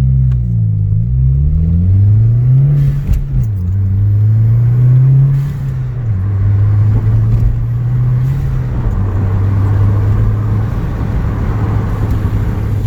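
2015 Subaru WRX's turbocharged flat-four running through a new stainless cat-back exhaust, pulling up through the gears. The engine note rises, drops at a shift about three seconds in, rises again, drops at a second shift about six seconds in, then settles into a steady cruise.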